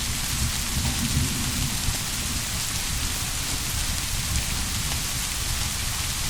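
Steady heavy rain, with a low, distant rumble of thunder that fades away over the first two or three seconds.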